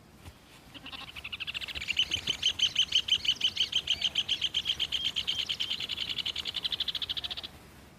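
Rufous hornero (red ovenbird) calling in excitement: one long, fast trill of rapid high notes that starts about a second in and runs for about six seconds before stopping.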